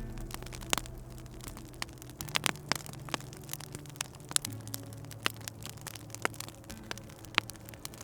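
Wood fire crackling in a fireplace, with irregular sharp pops scattered through, over a low steady hum that shifts in pitch a couple of times.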